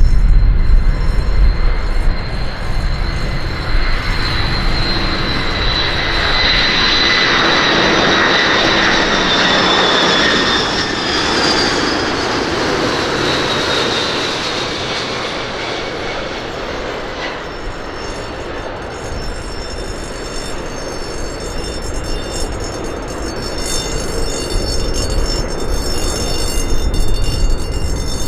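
KDC-10 Extender jet tanker's three turbofan engines running loud, with a high whine that slowly falls in pitch as the aircraft goes by; the roar is loudest about ten seconds in and then eases.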